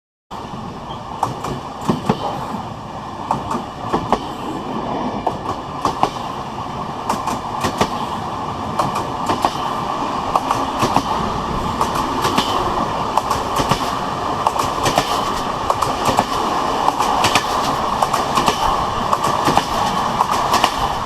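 Train wheels rolling with a steady rumble and a rapid, irregular clatter of clicks, building a little over the first few seconds and then holding.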